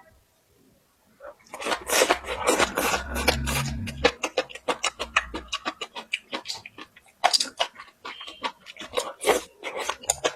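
A person chewing and crunching water spinach close to the microphone, a dense run of quick crisp bites and mouth clicks starting about a second in.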